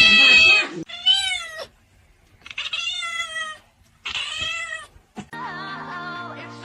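A domestic cat meowing four times in a row, each meow a drawn-out call that rises and then falls in pitch. A click and steady held tones follow near the end.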